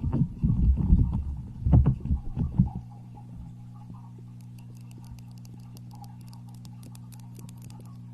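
Close, muffled low thumps and rumbling against an ASMR microphone for about three seconds, then the sound drops to a steady low electrical hum with faint crackles.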